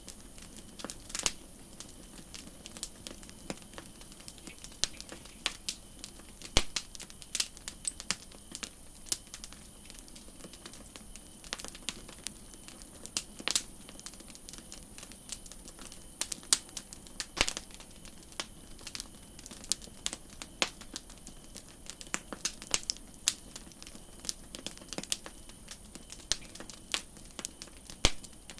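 Campfire crackling: irregular sharp pops and snaps of burning wood, some much louder than others, over a soft steady hiss.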